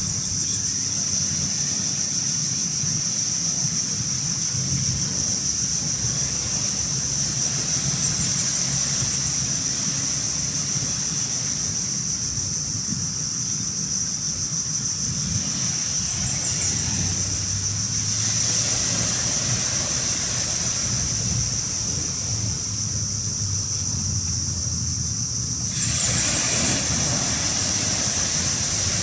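Steady low motor hum over a wash of water and wind noise, with a constant high-pitched whine. It all grows louder suddenly near the end.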